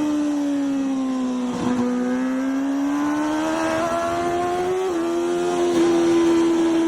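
Racing motorcycle engine running hard on a track lap, heard onboard: its pitch sinks to a low point about a second and a half in, then climbs steadily as the bike accelerates, with a brief break near five seconds, as at a gear change, before running on at a steady high pitch.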